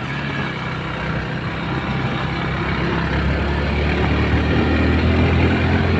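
Motor vehicle engine running with a steady low hum that grows gradually louder.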